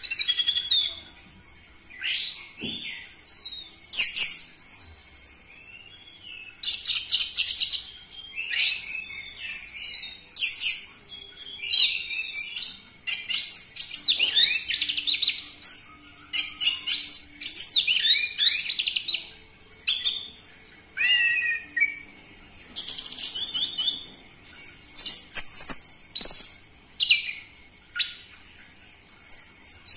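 Orange-headed thrush singing a loud, varied song: fast whistled phrases with sweeping up-and-down notes and quick runs, in bursts of a second or two with short pauses between them.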